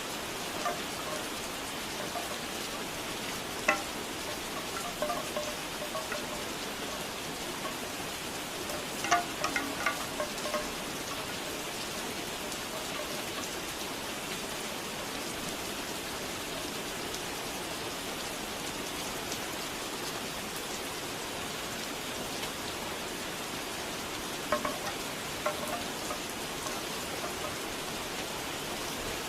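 Steady rain, with bamboo wind chimes clacking in scattered clusters of a few strikes; they fall silent for a long stretch through the middle.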